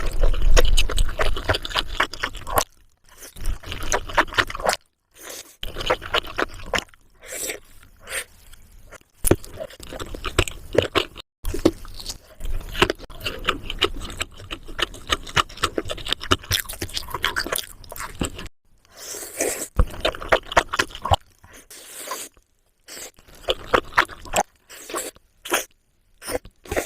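Close-miked eating sounds: wet chewing and crunching of food with scraping, in stretches that cut off abruptly several times.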